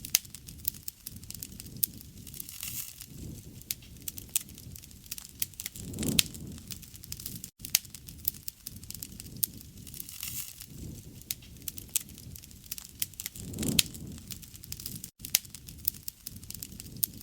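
Wood fire crackling, with dense sharp pops and snaps over a steady soft hiss of burning, and a gentle low swell of the flames about six seconds in and again near fourteen seconds.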